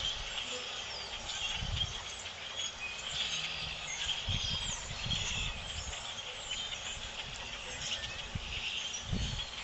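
A large flock of blackbirds calling together: a dense, unbroken chatter of overlapping chirps and squeaks. A few brief low bumps on the microphone sound under it.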